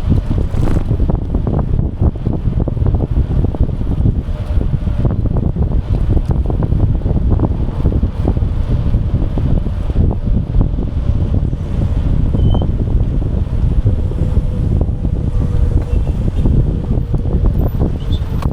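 Wind buffeting the microphone of a bike-mounted camera during a ride: a loud, steady low rumble, with scattered small clicks and knocks from the bike and its mount.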